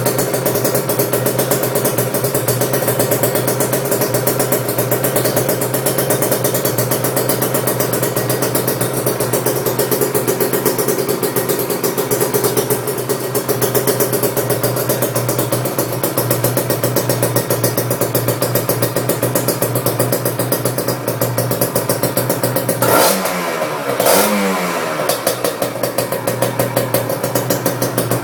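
Kawasaki Ninja 150 RR's two-stroke single-cylinder engine idling steadily through a CMS aftermarket exhaust. Near the end the throttle is blipped twice in quick succession, the pitch rising and falling each time.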